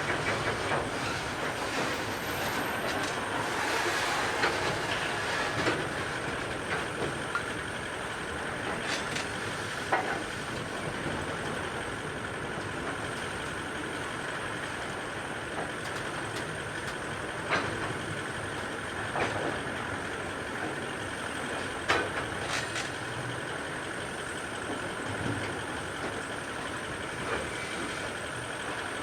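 Grain hopper wagons rolling past on the mainline: a steady wheel-on-rail rumble and rattle, with a few sharp clicks as the wagons go by.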